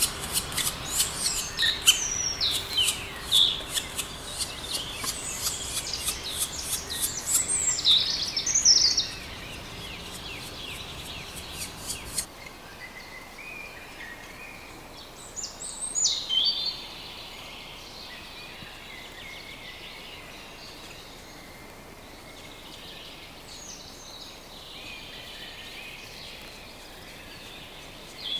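Black woodpecker pecking at wood in a fast series of sharp taps, about three a second, while small songbirds sing high chirps and falling whistles; the tapping stops about twelve seconds in and only the songbirds carry on, more faintly.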